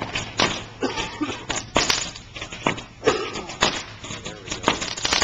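Consumer fireworks going off: scattered sharp pops and cracks at irregular intervals, about one or two a second.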